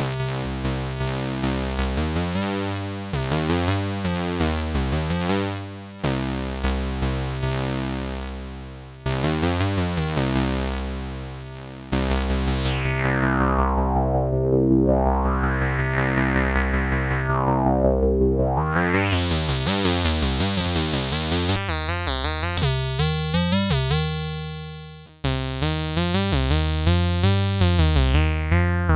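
Behringer K-2 analog monophonic synthesizer (an MS-20 clone) playing rapidly repeated notes, its resonant filter sweeping down and back up in the middle, with the patch changing abruptly a few times.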